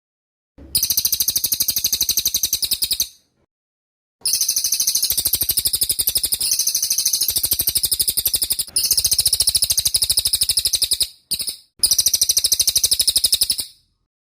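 Cililin songbird singing in the rapid 'tembak' (shooting) style: fast, high-pitched rattling trills of many notes a second, delivered in phrases of two to four seconds with short silent breaks between them.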